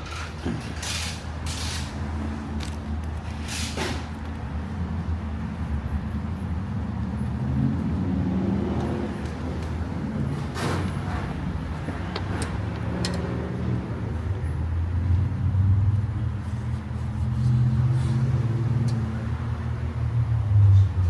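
Steady low mechanical rumble with shifting low tones, and a few sharp metallic clinks of tools and engine parts being handled, clearest about one, two and four seconds in and again around eleven and thirteen seconds.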